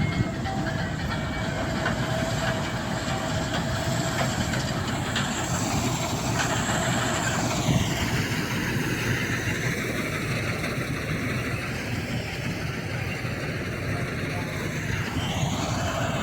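Wheat-harvesting machinery running steadily.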